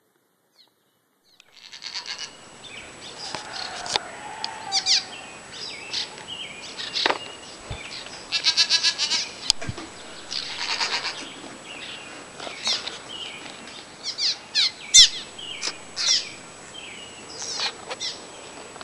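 A flock of small birds chirping and calling over one another, with short high chirps, gliding notes and a few buzzy trills. It starts suddenly about a second and a half in, after silence.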